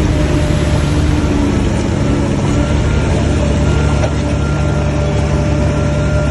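Heavy diesel engine of an earthmoving machine running steadily at a constant speed, with a faint steady whine above it.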